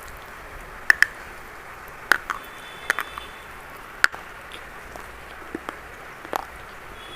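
Sharp, separate cracks of brown chalk being crunched, about ten snaps, some in quick pairs, over a steady hiss.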